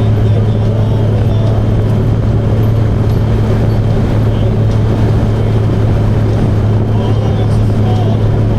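Motorcycle running at a steady cruising speed: an even, unchanging engine drone with road and wind noise.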